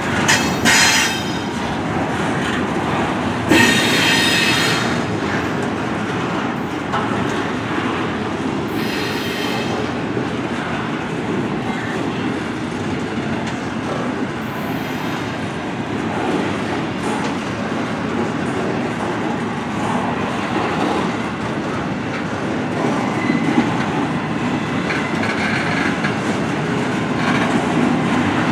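Double-stack intermodal freight cars rolling past close by: a steady rumble and rattle of steel wheels on rail, with brief high-pitched wheel squeals about half a second in, around four seconds in and around nine seconds in, and a thin squeal again near the end.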